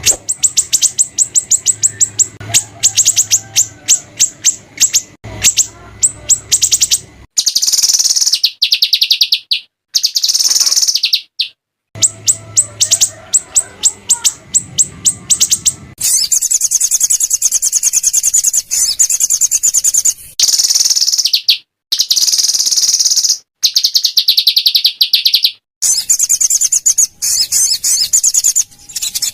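Small songbirds singing in rapid, high-pitched runs: strings of sharp repeated notes and dense trills, the harsh fast bursts that bird keepers call 'tembakan'. The song stops dead and restarts several times, as separate recordings are spliced together.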